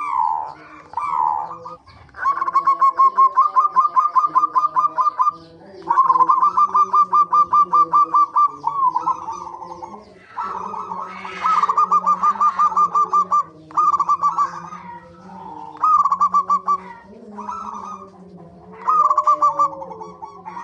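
Zebra doves (perkutut) calling in repeated bouts of rapid, staccato trilled cooing, about eight notes a second, each bout lasting one to three seconds.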